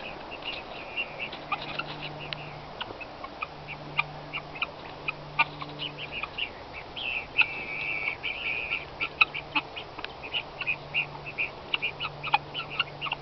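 A flock of guinea hens (helmeted guineafowl) calling: a rapid, continuous string of short, harsh, high notes, thickening into a longer run of calls about seven seconds in. A faint low hum comes and goes underneath.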